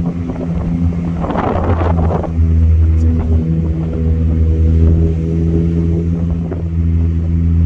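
Car engine running at a steady pitch while driving, heard from inside the vehicle. In the first two seconds a rush of wind or road noise sits over it.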